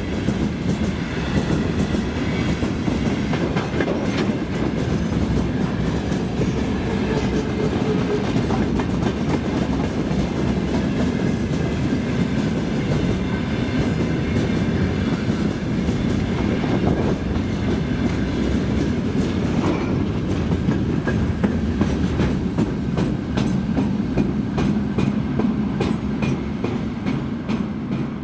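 Freight train wagons rolling past at steady speed, a continuous heavy rumble with wheels clicking over the rail joints.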